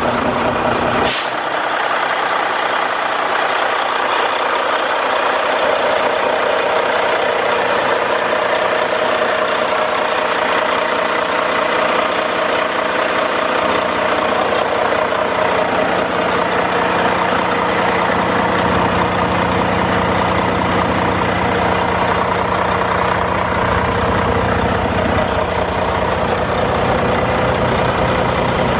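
Volvo D13 inline-six diesel of a truck idling steadily, with one sharp click about a second in.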